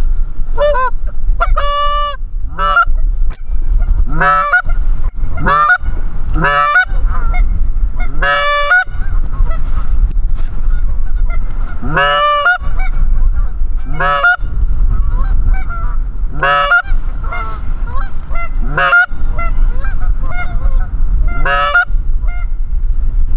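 Geese honking and clucking, about a dozen loud calls spaced a second or two apart, one of them a quick run of clucks, over a steady low wind rumble on the microphone.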